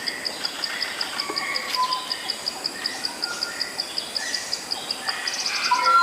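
Malayan black magpie giving short, scattered whistled notes, with a louder run of notes near the end. Behind it an insect keeps up a steady, fast, high chirping of about seven pulses a second.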